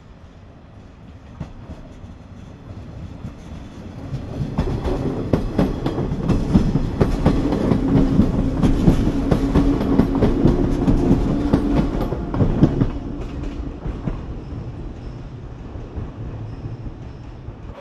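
Electric passenger train passing along the station platform: the rumble builds as it approaches, the wheels clatter over the rail joints with a steady hum while it is alongside, and the sound fades as it runs away.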